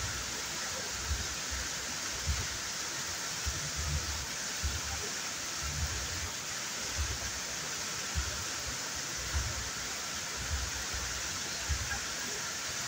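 Waterfall running: a steady, even rush of falling water, with dull low thumps roughly once a second.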